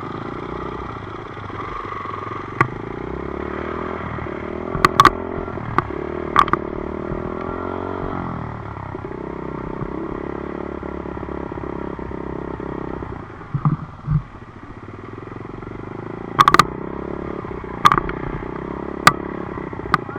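Dirt bike engine running while riding, its pitch sliding down about eight seconds in and easing off briefly a little later. A handful of sharp clicks and knocks sound over it.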